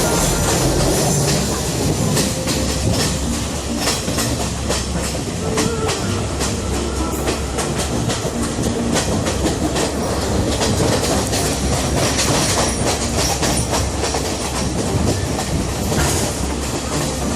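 Passenger train running along the track: a steady rumble of the carriages with the wheels clicking over the rail joints.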